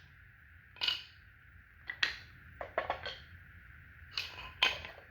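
Wooden Brio toy train track pieces knocking and clacking as they are handled and fitted together, a run of sharp knocks at uneven intervals.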